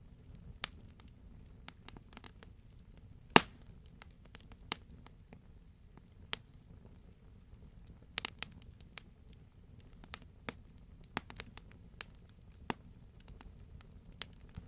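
Campfire crackling: irregular sharp pops and snaps from burning logs over a low steady rumble, with one loud pop a little over three seconds in.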